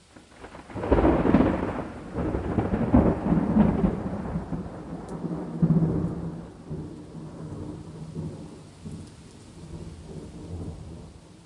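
A long rolling peal of thunder over steady rain: it breaks about a second in with several loud cracks, then rumbles on in weakening swells and fades out near the end.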